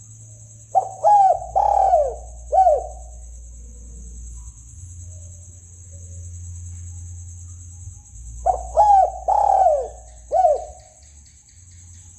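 Spotted dove (tekukur) cooing, played as a hunting lure call: two phrases of four coos each, about seven seconds apart. A steady high-pitched buzz runs underneath.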